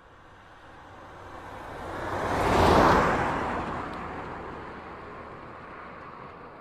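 A road vehicle passing by: tyre and engine noise swelling to a peak about three seconds in, then fading away.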